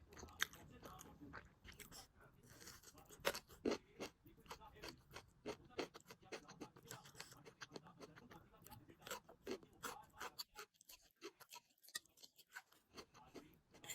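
A person eating noodles close to the microphone: faint, irregular chewing and wet mouth clicks, quieter for a couple of seconds near the end.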